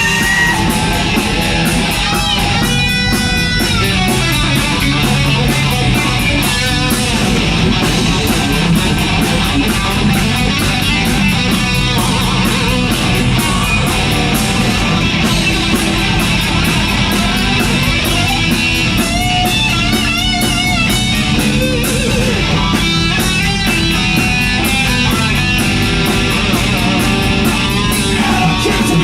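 Hard rock band playing live in an instrumental passage: electric guitar leads with bent, wavering notes over a steady drum beat and bass.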